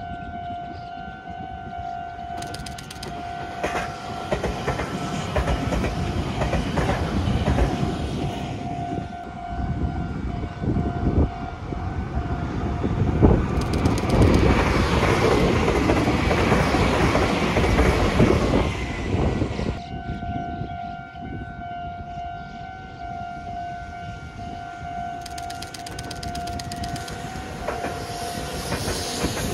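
A train running past, with a run of wheel knocks over the rails, loudest a little past the halfway point and then fading. A steady high-pitched tone sounds before the train comes through and again after it has passed.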